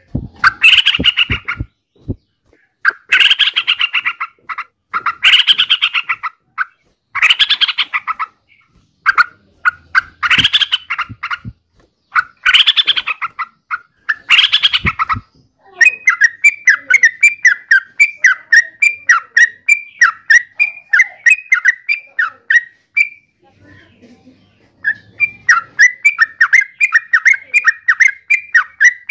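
Yellow-vented bulbul calling: bubbly, chattering phrases of about a second each, repeated every second and a half or so. About halfway through, these give way to a fast run of short, rapid notes, which pause briefly and then carry on.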